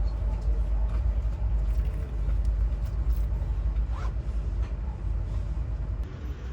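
Steady low rumble of a vehicle in motion, with a brief rising squeak about four seconds in.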